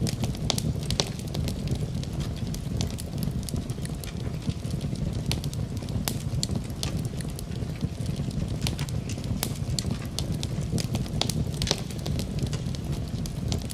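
Wood fire burning in a fireplace, crackling with frequent sharp, irregular pops over a steady low rumble.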